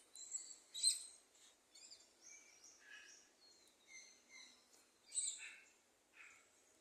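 Parrots calling: a scattered run of short, high squawks and chirps, loudest about a second in and again around five seconds.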